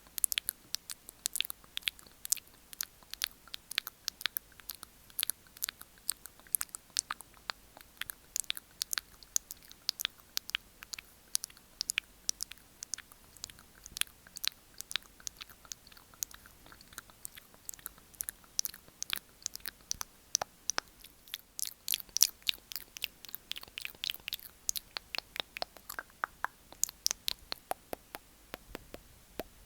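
Close-miked ASMR mouth sounds: a rapid, irregular run of sharp tongue clicks and mouth smacks, several a second, growing louder and denser a little past the middle.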